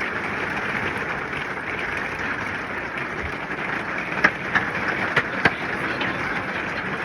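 Hail pelting the camper's roof and walls, heard from inside as a dense, steady clatter. Several sharper, louder hits from bigger stones come about four to five and a half seconds in.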